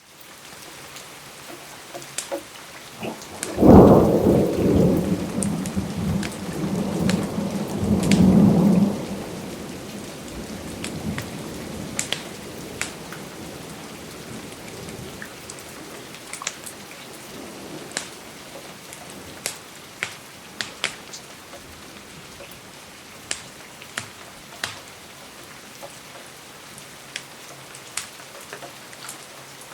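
Steady rain with a thunderclap about four seconds in that rumbles on until about nine seconds. Sharp crackles from a wood fire pop here and there throughout.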